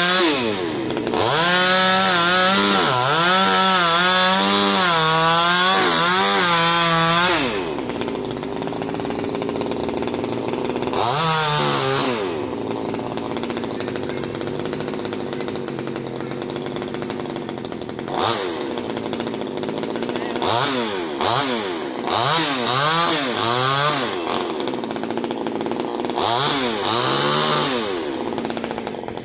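Small top-handle two-stroke chainsaw revving in bursts: one long full-throttle burst of about six seconds, then several shorter ones, dropping back to idle in between, its pitch wavering under throttle.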